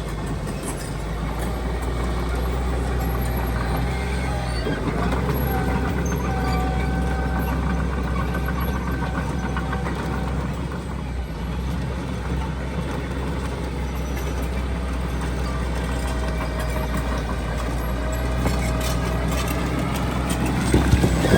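Heavy diesel earthmoving machinery running steadily under load, with a thin whine that drifts slightly in pitch over the engine drone. It gets louder and clattery near the end.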